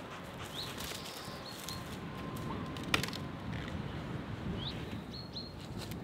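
A songbird singing the same short phrase twice, a quick rising note followed by two short level notes, over low steady outdoor background noise. A single sharp knock about halfway through is the loudest sound.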